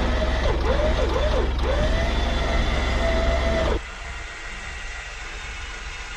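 Electric winch motor whining as it hauls a caravan stuck in snow, its pitch sagging three times under the load and then holding steady. It cuts off abruptly near the middle, leaving a fainter hum.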